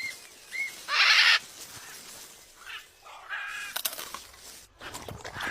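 Bird calls: two short rising-and-falling chirps, then a loud harsh squawk about a second in, and more calls a couple of seconds later.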